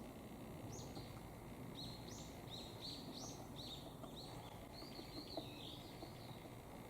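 A small songbird calling: a series of short, high notes that slide downward, quickening in the middle, then a warbled, wavering phrase near the end, over a faint low background rumble.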